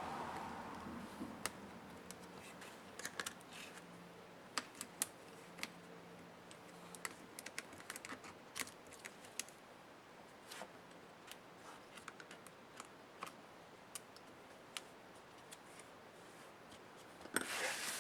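Scattered light clicks and taps of small laptop parts and hand tools being handled, irregular throughout, with a short scraping rustle near the end.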